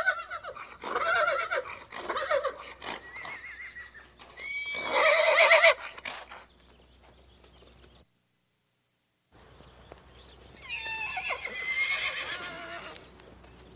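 Horses neighing: a run of quavering whinnies, the loudest about five seconds in, then a brief silence and one more whinny near the end.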